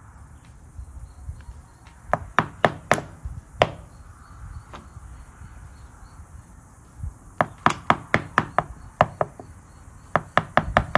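Three quick runs of sharp taps, several strokes each: a pickup's door lock cylinder being knocked to work a part loose.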